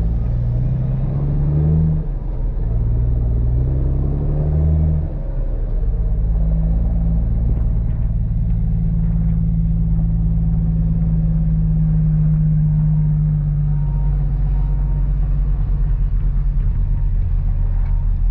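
Kenworth W900B dump truck's Caterpillar C13 inline-six diesel engine pulling slowly in low gear while spreading gravel base from the raised bed. The engine note shifts up and down for the first five seconds or so, then holds steady.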